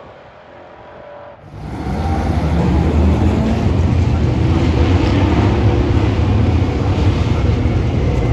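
Race car engines heard from trackside: a car fades away, then about one and a half seconds in the sound jumps abruptly to loud racing engines at full throttle, with engine notes rising and falling as cars pass, staying loud to the end.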